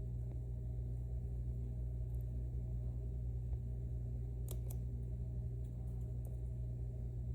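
Steady low hum with a few faint metallic clicks, two close together about four and a half seconds in, from lock-picking tools working in a dimple lock.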